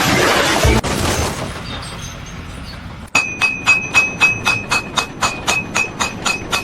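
Rapid, even blows of a hammer on metal, about four a second, each ringing with a high metallic ping, starting sharply about three seconds in. Before that, a rushing noise cuts off about a second in and fades away.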